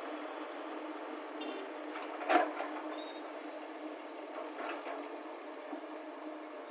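Excavator diesel engines running steadily while soil is loaded into a tipper lorry, with one sharp loud clank a little over two seconds in and a few fainter knocks later.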